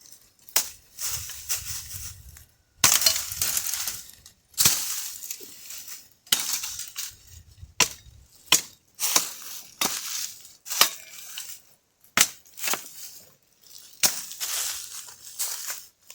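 Dry firewood branches and sticks thrown onto a pile, a dozen or so clattering, crackling crashes one to two seconds apart.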